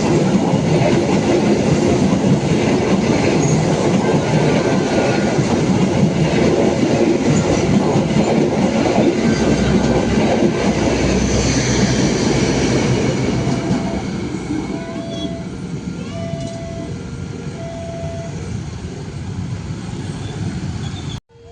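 Train passing close by: a loud, dense rumble of wheels on rails that eases off about two-thirds of the way in. As it fades, a short steady beep repeats about once a second, the level crossing's warning signal.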